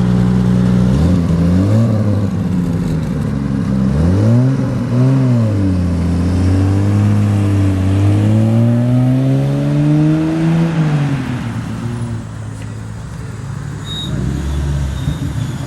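Car engine idling, then revved in two short blips and a longer, slower climb in pitch that drops back about eleven seconds in, after which the engine sound is quieter.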